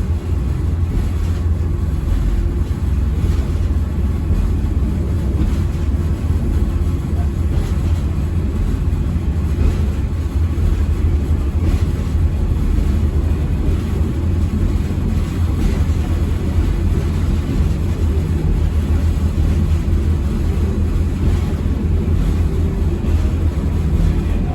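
Steady low rumble of a moving passenger train heard from on board, running at a constant speed.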